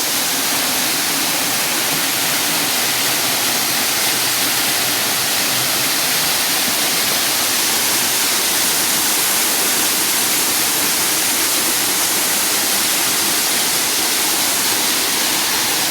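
Waterfall and river water rushing, a loud, steady, unbroken hiss.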